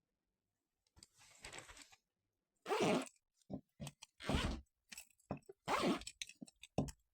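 A run of short crunching sounds, about eight in a row with silent gaps between, the loudest about three seconds in.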